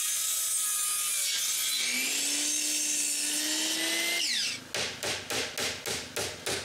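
Power saw cutting a wooden plank, its motor whine shifting in pitch under load, then winding down about four seconds in. Right after, a hammer drives nails with quick, even blows, about three a second.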